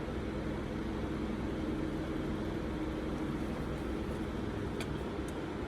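Steady low background hum, with a couple of faint light clicks near the end.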